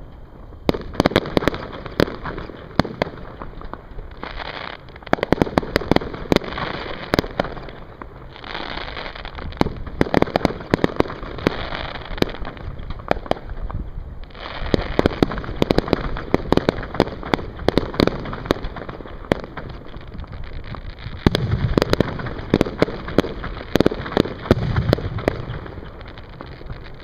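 Aerial fireworks bursting: rapid sharp pops and crackling that come in clusters with short lulls between them. A few deeper booms sound in the last few seconds.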